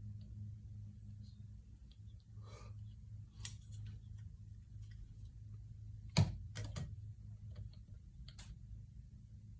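A steady low hum with scattered small clicks and one sharper knock about six seconds in.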